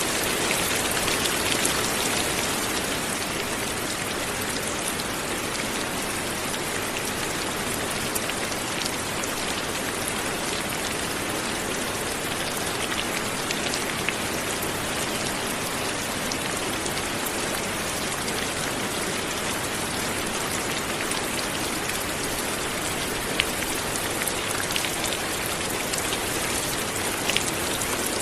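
Steady light rain falling, with the occasional drop ticking more sharply.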